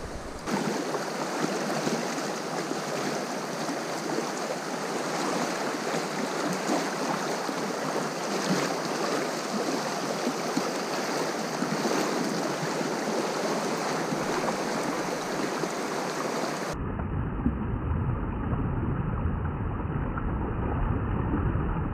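Steady rushing of flowing river water, an even hiss. About 17 seconds in it changes abruptly to a duller, muffled rumble with the high end gone.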